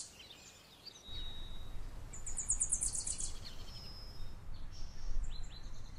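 After a near-silent first second, a low steady rumble of background noise sets in. A little past two seconds in, a bird gives a rapid high-pitched trill lasting about a second, and fainter chirps follow.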